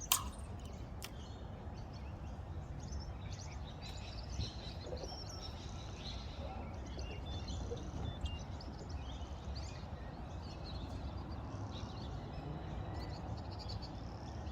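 Birds chirping faintly here and there over a steady low rumble, with a sharp click at the very start.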